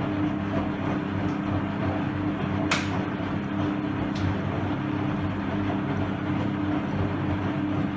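Hoover Electra 535 Dual Spin front-loading washing machine in its wash phase, its motor running steadily with a hum as the drum tumbles. There is a sharp click about three seconds in.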